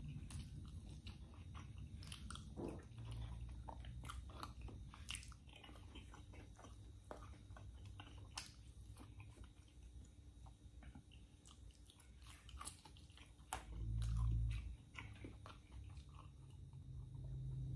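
Close-up chewing and biting of food, fried tofu and tomato, with many small wet mouth clicks and smacks. A brief low rumble sounds about fourteen seconds in.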